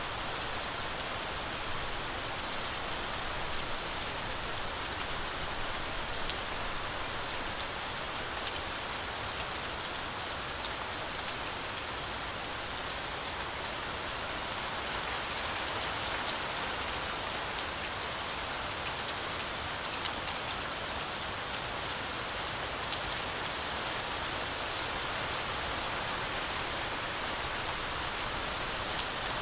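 Heavy rain falling steadily through a forest canopy, a dense even hiss of rainfall with scattered sharp drop ticks.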